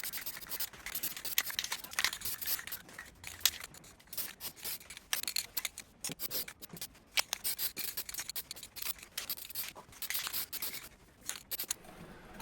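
Aerosol can of high-temperature paint spraying in short, uneven passes, a hiss that comes and goes, with sharp clicks of the can and parts being handled in between.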